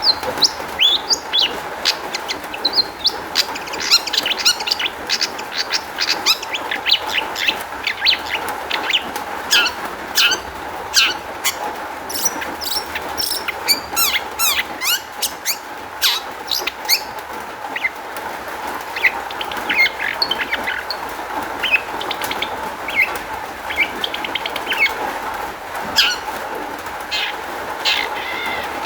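Long-tailed shrike singing a fast, varied song of sharp chirps, short sweeping notes and trills, filled out with phrases it has picked up from other birds, over a steady faint hum.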